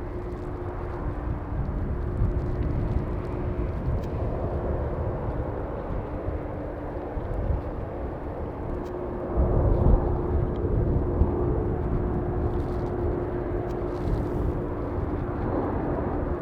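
A KLM Boeing 747-400 taxiing, its four turbofan engines running at taxi thrust with a steady whine over a low rumble. The rumble grows louder about nine seconds in.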